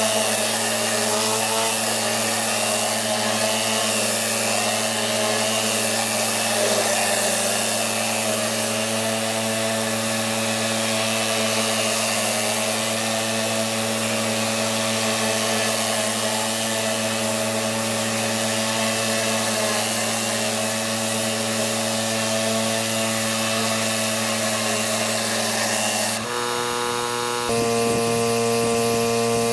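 Pressure washer running steadily: a constant motor hum under the hiss of its water jet. About 26 seconds in, the hum briefly changes pitch, then settles into a new steady tone.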